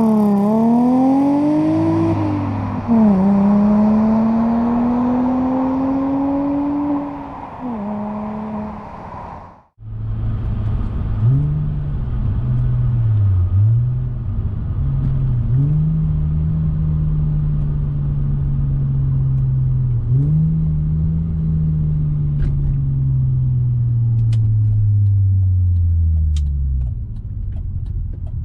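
2003 Audi A4's 3.0-litre V6 through a custom exhaust, accelerating through the gears. The engine pitch climbs and then drops at each upshift. After a sudden break about ten seconds in, the engine pulls again at a lower pitch, shifts up several times and eases off near the end.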